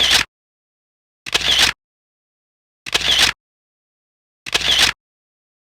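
Camera shutter sound effect going off four times, about every second and a half, with dead silence in between.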